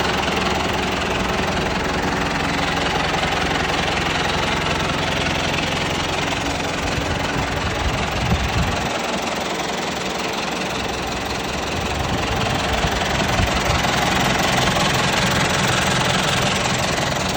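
John Deere 5100R tractor's four-cylinder diesel engine running steadily. Its low rumble briefly thins about eight seconds in, then returns.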